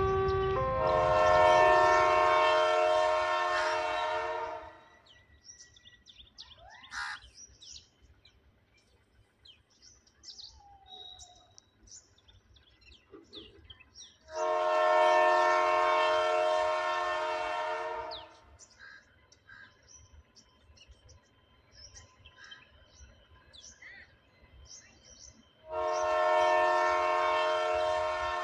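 Train air horn sounding three long blasts, each a steady chord of several notes held about four seconds, with the third still sounding near the end. Faint bird chirps fill the quiet gaps between blasts.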